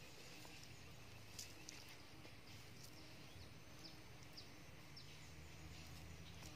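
Faint chirping of small birds: short, high, falling notes repeating every second or so over a low steady hum.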